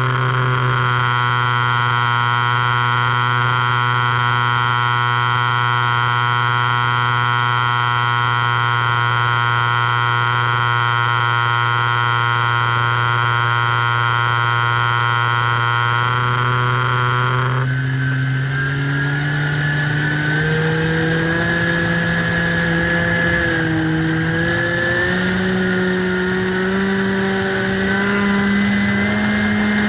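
Electric motor and propeller of an FPV radio-control plane running at a steady pitch, then speeding up, its tone climbing in stages over the last dozen seconds as the throttle is advanced.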